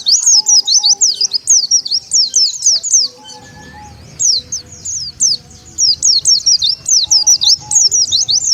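White-eye (pleci) lure call: a dense run of rapid, high twittering chirps, each a quick downward sweep, with a brief lull about three seconds in.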